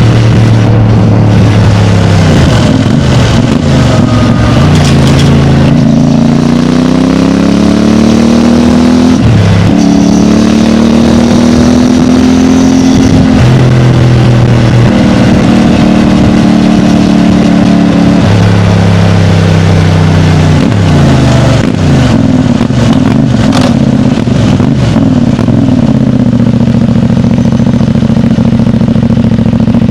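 CFMOTO 450MT's parallel-twin engine through its stock exhaust, under way: the engine note climbs and then drops sharply several times, as with upshifts, and holds steadier near the end.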